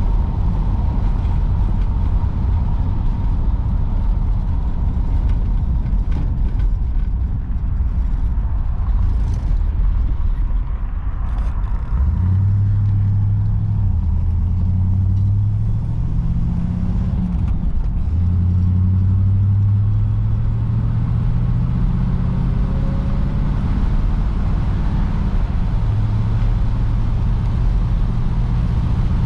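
1953 Oldsmobile Super 88's V8 engine running under way over a steady low road rumble. From about twelve seconds in, the engine note rises, drops back and rises again as the car picks up speed.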